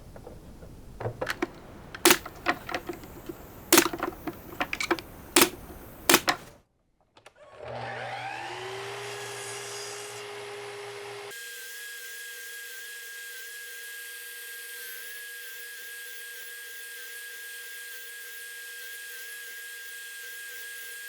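Sharp wooden knocks and clicks as the workpiece is handled and set up, then, about eight seconds in, a miter saw's motor spinning up with a rising whine and running on steadily, trenching the wood.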